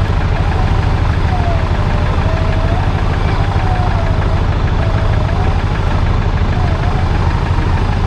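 Off-road 4x4's engine running with a steady low drone as it crawls up a steep muddy track, with a thin whine above it that wanders up and down in pitch.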